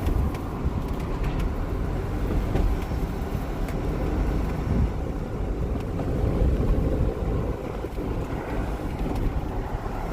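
Car driving: a steady low road and engine rumble.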